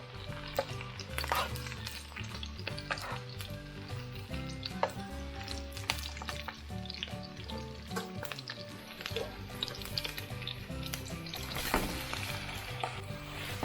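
Close-miked eating sounds of spaghetti being chewed and slurped, a wet crackle broken by many sharp mouth clicks and smacks.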